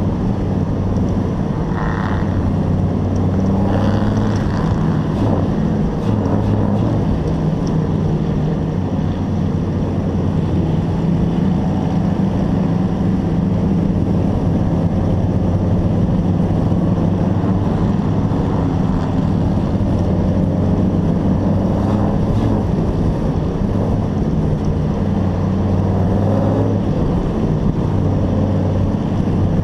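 Hobby-class race truck's engine running under load, heard from on board, with a steady drone that wavers only slightly in pitch.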